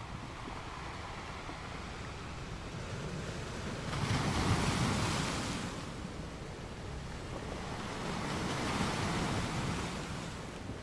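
Gentle ocean waves washing onto a sand beach. One wave comes in suddenly about four seconds in and fades out over a couple of seconds, and a second, softer one swells and recedes a few seconds later.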